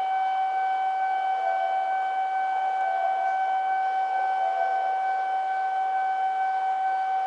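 A steady, unwavering high-pitched electronic tone with overtones, holding one pitch at a constant level.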